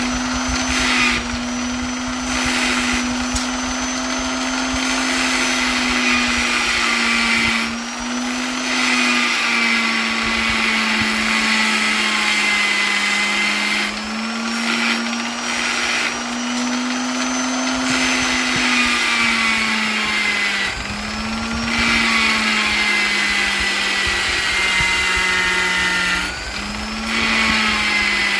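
Electric polisher running without a break. Its motor hum steps up and down in pitch every few seconds as it is loaded and eased off, with a high whine above it.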